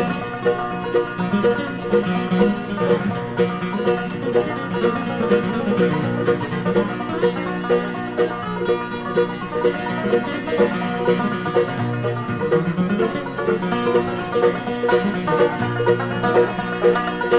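A bluegrass band plays an instrumental break between sung verses, with a banjo playing quick rolling notes over guitar and a bass line.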